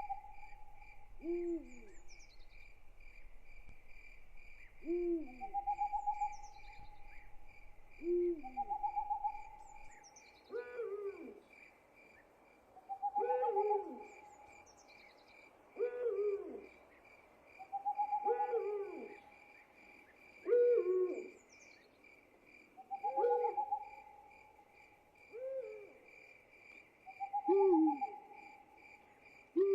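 Night ambience: an owl hooting again and again, a call every two to three seconds, over a steady pulsing trill of crickets.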